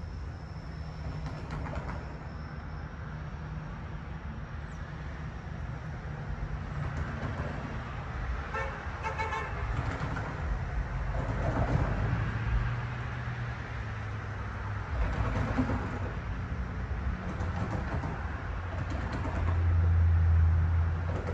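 Steady low rumble of trains and traffic at a railway station, with a short horn toot about nine seconds in. The rumble swells louder near the end.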